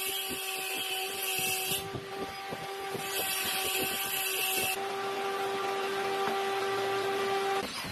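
Electric woodworking power tool running steadily with a pitched motor hum, cutting into wood in two passes of about two seconds each with a harsh hiss, then switching off abruptly near the end.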